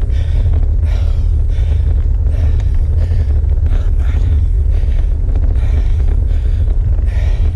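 Cyclist's hard, rapid breathing on a steep climb, about two breaths a second, over a heavy low rumble of wind on the microphone.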